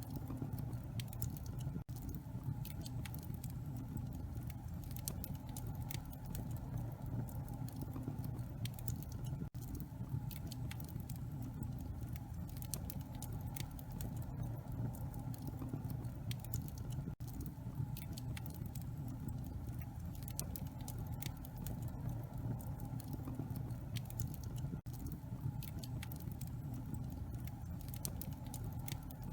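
Wood fire in a fireplace burning, with a steady low rumble of flame under frequent small, irregular crackles and pops.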